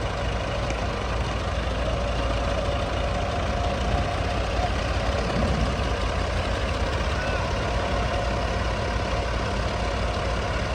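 Combine harvester's diesel engine running steadily with a deep, unbroken drone.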